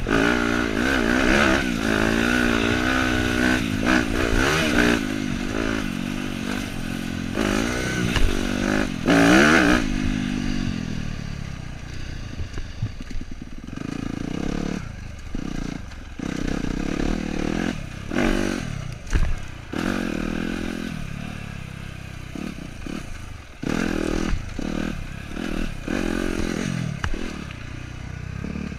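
Dirt bike engine revving up and down under throttle for about the first ten seconds, then running lower and quieter, with frequent knocks and rattles.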